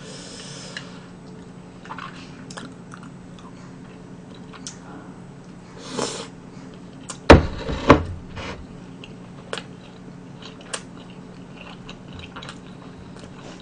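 Close-up eating sounds: a person chewing food picked up with chopsticks, with small wet mouth clicks throughout. Two louder thumps come just past the middle.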